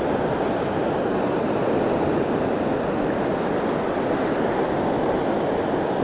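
Steady wash of ocean surf mixed with wind on the microphone.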